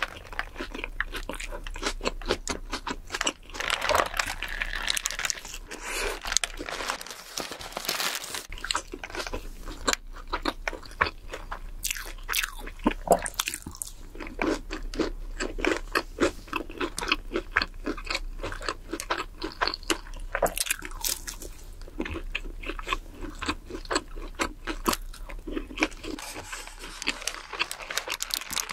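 Close-miked chewing and crunching of a Burger King burger: wet mouth sounds with many irregular crisp crackles and bites.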